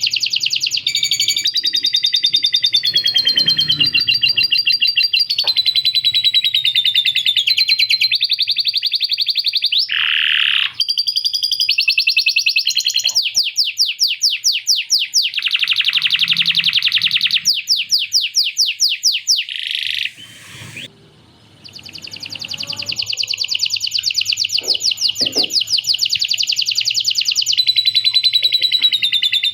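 Male canary singing a long, unbroken song of rapid high trills and rolls, filled with phrases copied from a lovebird's chattering ngekek call. The song breaks off briefly a little after two-thirds of the way through, then resumes.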